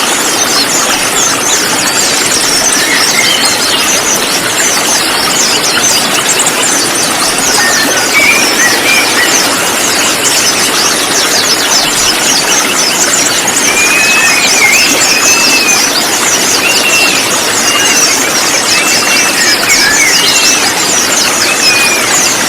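Chorus of many konin sunbirds, a lure recording of a flock: rapid high chirps and twitters pile up continuously over a steady hiss. From about halfway through, a repeated arched whistled phrase, lower in pitch, stands out.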